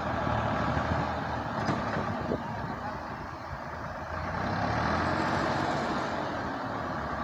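Diesel tractor engine running steadily with a low rumble, with a couple of short clicks about two seconds in and a louder stretch around five seconds in.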